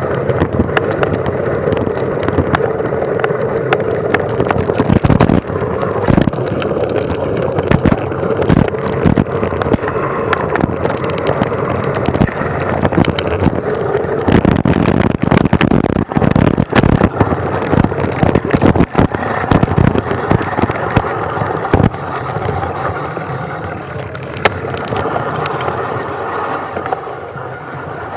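Mountain bike ridden fast over a rough trail: constant rattling with many sharp knocks and clicks over loud wind rush, easing a little near the end.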